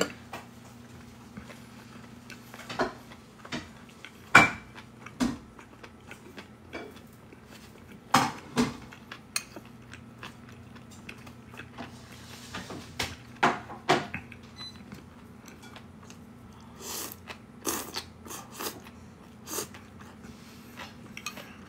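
A person chewing food close to the microphone, with scattered short clicks and mouth sounds, and a spoon now and then tapping a bowl, over a faint steady hum.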